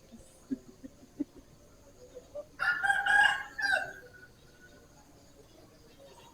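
A rooster crowing once, a single call of about a second and a half starting midway through.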